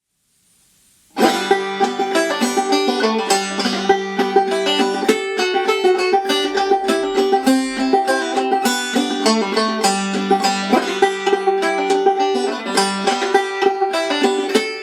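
Five-string banjo with a thin goatskin head tensioned to 90 on a Drum Dial, played clawhammer style: a steady stream of brushed and plucked notes over a ringing drone string, starting about a second in.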